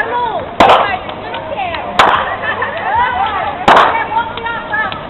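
Firecrackers going off: three sharp, loud bangs about a second and a half apart, over calling and shouting voices.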